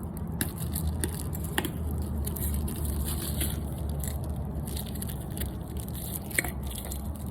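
A few light clicks and taps as small parts are handled during an oil change, over a steady low hum.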